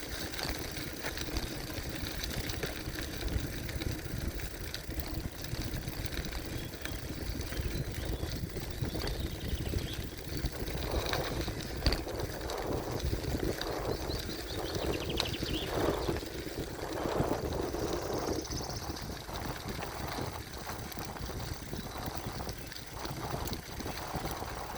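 Gravel bike riding along a dirt forest trail: steady rumble of the tyres on the ground, with uneven swells as the surface changes.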